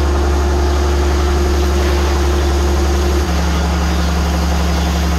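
An engine of farm harvesting machinery running steadily with a deep, even hum. A little over three seconds in, its note shifts: one tone drops out and a lower one takes over.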